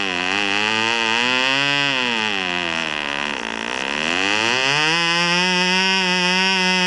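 Model aircraft diesel engine running at high speed with a buzzing note. Its pitch drops and wavers as the engine slows, sinks lowest about three and a half seconds in, then climbs back to a steady high note about five seconds in, its speed changing as it is tuned.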